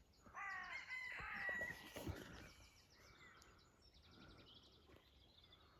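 Geese calling faintly, a few short calls in the first two seconds, with faint high chirping, then near quiet.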